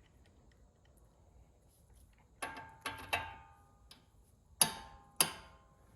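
Click-type torque wrench tightening a tie rod end nut, giving five or six sharp metallic clicks with a short ring, starting about two seconds in. The wrench clicks at once each time it is pulled: the nut is already at the set torque of 60.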